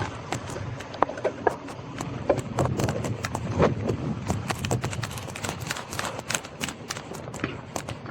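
Scott Scale Gravel 10 gravel bike clattering over cobblestones: a rapid, irregular run of knocks and rattles from the frame and wheels over a low tyre rumble.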